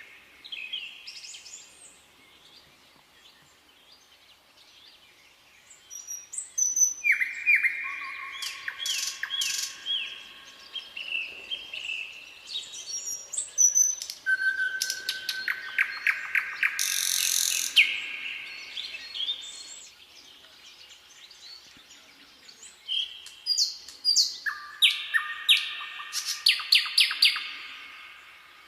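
Several songbirds singing and calling, with quick chirps and trills overlapping in bursts and short lulls between them.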